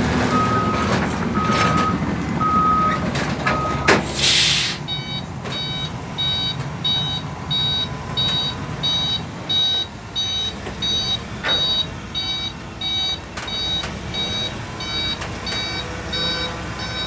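Dump truck reversing alarms beeping over a diesel engine running: first a lower beep about once a second, then, after a short loud hiss of air around four seconds in, a higher-pitched beep repeating about one and a half times a second.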